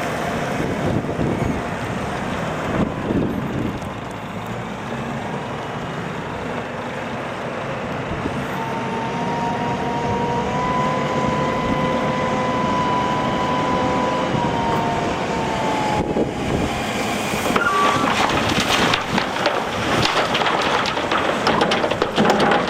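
Heavy diesel machinery running steadily at a gravel loading: a wheel loader and a truck. A steady whine rises, holds for several seconds and falls away. Near the end comes a dense clatter of many small knocks, as when gravel is worked.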